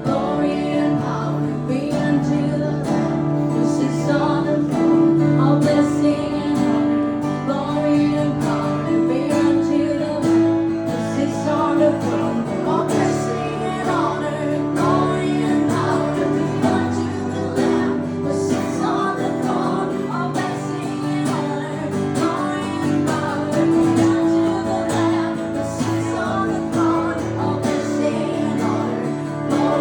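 Acoustic worship music: a strummed acoustic guitar holding steady chords, with a voice singing over it.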